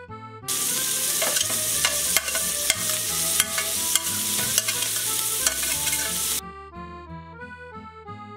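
Diced onion sizzling as it hits hot melted butter in a frying pan, with sharp clicks of a fork scraping and tapping the onion off a plate. The sizzle starts suddenly about half a second in and cuts off about six seconds in, over background accordion music.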